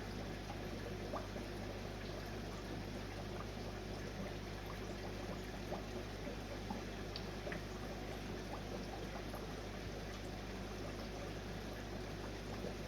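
Steady trickle and bubble of water from an aquarium filter, over a constant low electrical hum, with a few faint small ticks.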